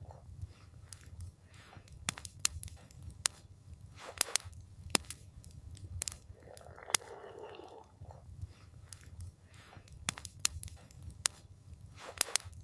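Campfire crackling, with irregular sharp pops and snaps over a low steady rumble, and a soft whooshing swell about seven seconds in.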